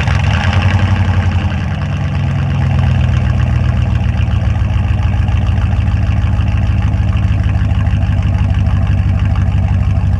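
2002 Dodge Ram pickup's engine idling through its freshly fitted custom exhaust with a flex pipe and new tip, just after a start. A slightly faster idle in the first couple of seconds settles into a steady, loud, deep idle.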